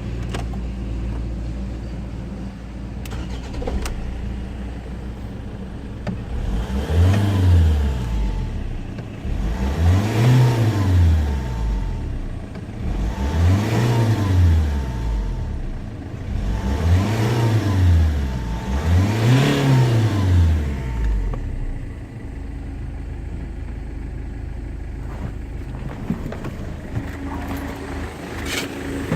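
Rover 75's 2.0 CDTi (204D2) four-cylinder turbodiesel idling, then revved five times, each rev rising and falling over a second or two, before settling back to idle.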